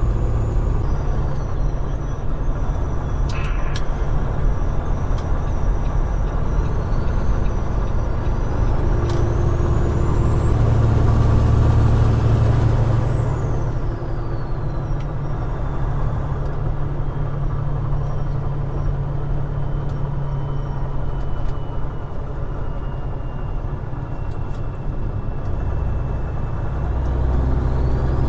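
Peterbilt 389 semi truck's diesel engine running steadily while driving, with a high turbo whistle that climbs in pitch about eight seconds in, peaks as the engine gets louder, and falls away a few seconds later.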